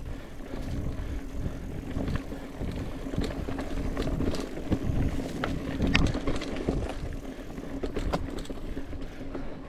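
Mountain bike rolling along a dirt trail: a steady low rumble from the tyres, with scattered clicks and rattles as the bike goes over bumps and a faint steady hum.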